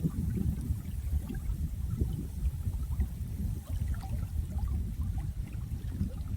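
Running water: a steady low rumble with small gurgles and drips scattered through it.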